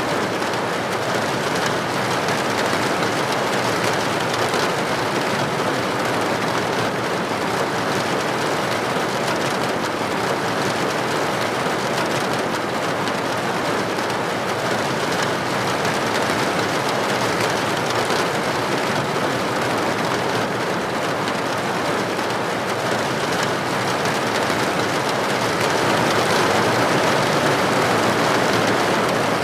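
Steady rain falling without let-up, an even, dense hiss.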